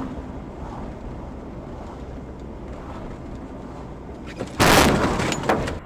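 Steady road and engine noise from a moving car, then a loud vehicle crash about four and a half seconds in that lasts about a second.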